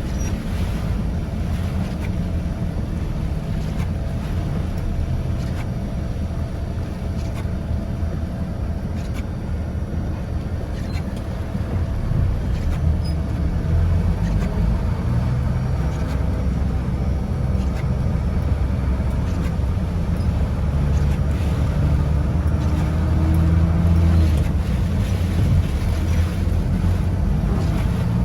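A vehicle running through heavy rain, with strong wind buffeting the microphone: a dense, steady rumble that grows louder about halfway through.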